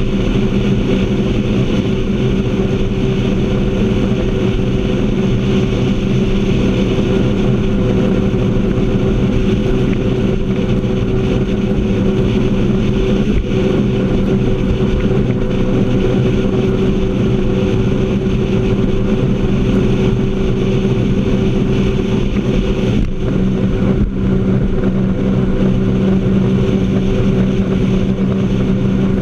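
Jet ski engine running steadily at speed, its pitch holding nearly constant, with a steady rushing hiss over it.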